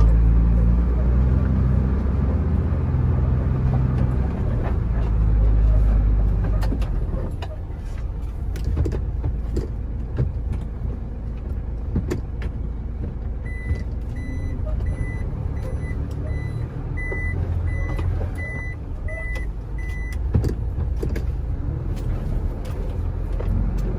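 A truck's engine running, louder for the first six seconds and then settling lower, with a few knocks. Midway an electronic warning beeper sounds about twice a second for several seconds, like a reversing alarm.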